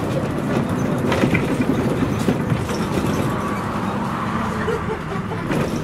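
Inside a Scania CN113CLL city bus in service: its Scania DSC 11.71 six-cylinder diesel running steadily, with a few knocks and rattles from the body.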